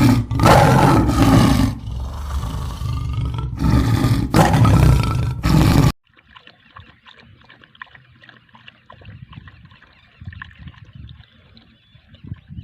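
Recorded tiger roars: several loud, rough roars in a row for about six seconds, then cutting off suddenly to a faint low background.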